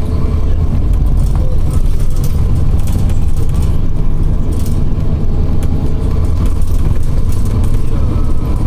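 Cabin of a Scania OmniCity city bus on the move: a steady low engine and road rumble with scattered rattles and clicks from the interior.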